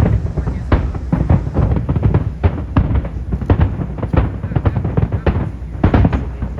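Aerial fireworks exploding in rapid, overlapping bangs, several a second, over a continuous low rumble: a dense barrage typical of a show's finale.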